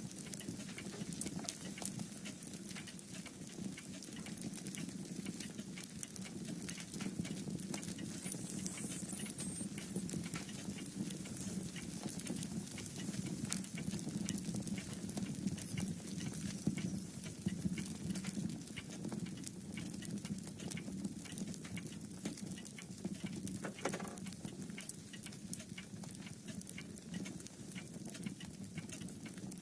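Wood fire crackling in a fireplace: many small, irregular pops over a low, steady rush.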